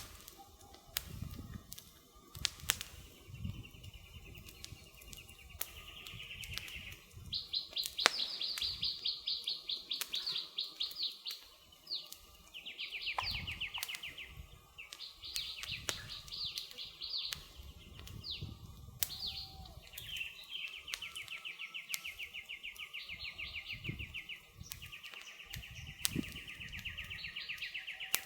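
A songbird singing long, fast trills, phrase after phrase with short gaps, over the scattered sharp snaps and pops of a crackling wood campfire.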